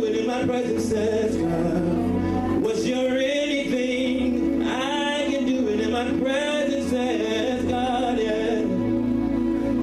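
Gospel song: a male voice singing a sliding, wavering melody over steady held chords and bass.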